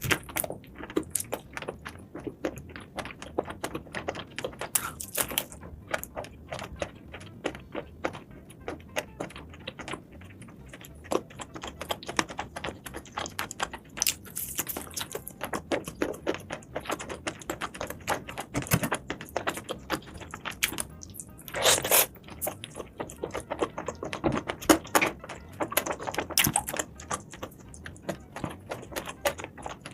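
Close-up eating sounds of seafood being chewed: a dense run of irregular wet clicks and crunches, with a louder, longer noisy burst about 22 seconds in.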